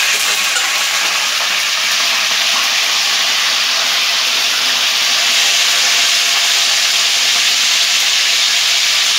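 Raw chicken pieces frying in hot oil in an aluminium karahi: a loud, steady sizzle, with the pieces being stirred by a wooden spatula.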